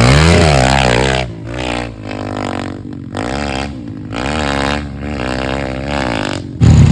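Pit bike's small single-cylinder engine revving up and down in repeated pulses. A louder, lower engine comes in suddenly near the end.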